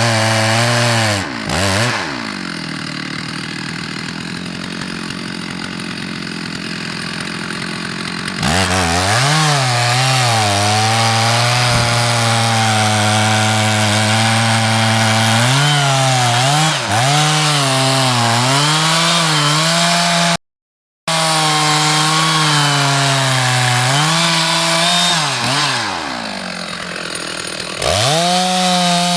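Two-stroke chainsaw cutting wood at high revs, its pitch dipping and recovering as the chain bogs under load in the cut. The saw is eased off to a lower throttle twice, about two seconds in and again near the end, then brought back up to speed.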